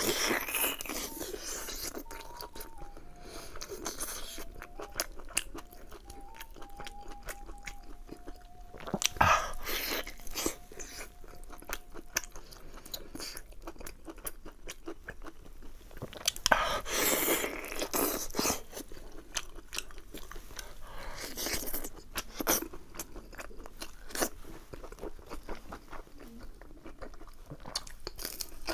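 Close-miked chewing and biting of braised beef rib meat torn from the bone, with wet smacking and crunching. The loudest bites come around 9, 17 and 22 seconds in, and near the end a stalk of raw green onion is bitten.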